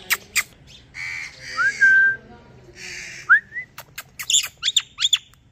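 Indian ringneck parrot calling: two harsh squawks, each ending in a short rising whistle, then a quick run of sharp chirps near the end.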